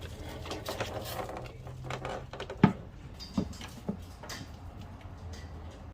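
Clicks, rustles and knocks from handling a takeout meal and its container, with one sharp knock near the middle, over a low steady hum.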